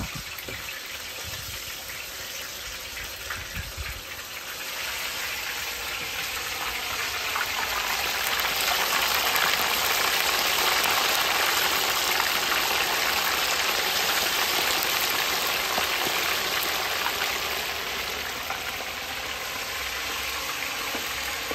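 Hot oil sizzling steadily as food fries. The sizzle swells from about four seconds in, is loudest around the middle, and eases a little near the end.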